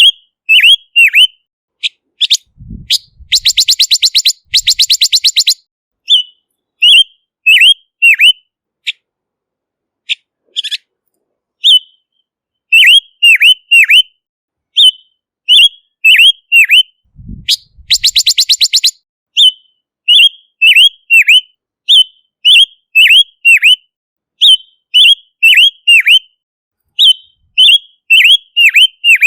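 Silver-eared mesia singing: short whistled notes that slur downward, delivered in quick groups of two to four, over and over. Twice it breaks into a fast rattling trill lasting about two seconds.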